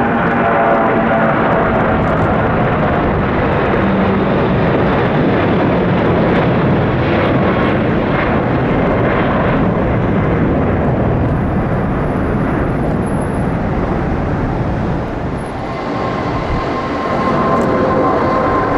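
Jet airliner passing low overhead: loud, steady engine rush, with the whine of its engines fading over the first seconds. A few seconds before the end the noise dips briefly, then a new steady engine tone sets in.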